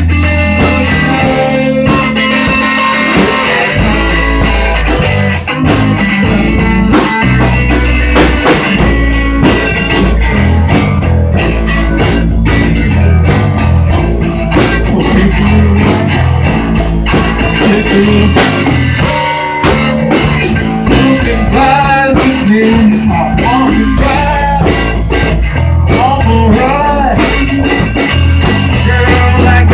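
Amateur rock band playing a song live: guitar over a steady bass line and a drum kit, with bending guitar notes later on.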